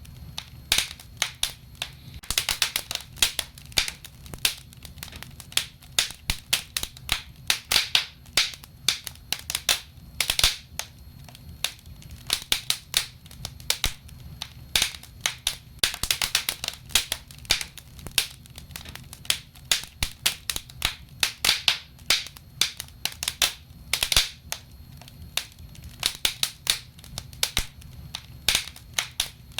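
Wood fire burning in a fireplace: irregular sharp crackles and pops, several a second and coming in clusters, over a low steady rumble.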